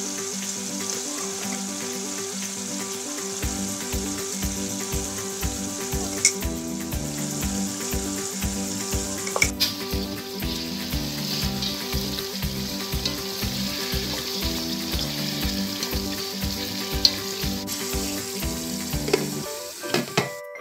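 Chicken, onion and tomato sizzling in hot oil in a pan while a spatula stirs them, with a few sharp clicks of the spatula against the pan. Background music with a steady beat comes in about three seconds in.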